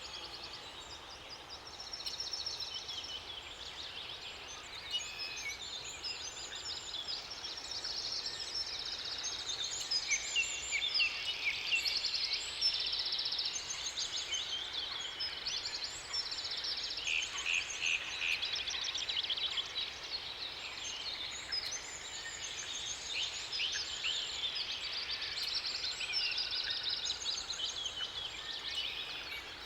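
Several songbirds singing over one another: a busy mix of fast trills and chirps, busiest from about ten seconds in.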